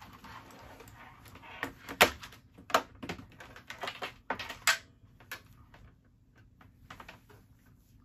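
Plastic clicks and knocks from a computer keyboard being moved and cables being handled and connected at the back of an iMac G3. The sharpest knock comes about two seconds in, with a cluster of clatter up to about five seconds, then only a few light taps.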